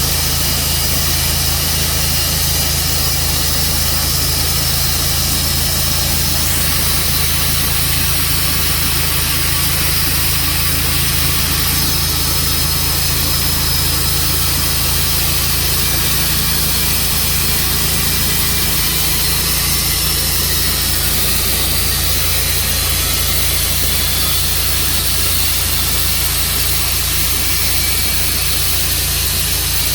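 Tru Cut sawmill running steadily, its engine holding one even note with a constant high hiss over it.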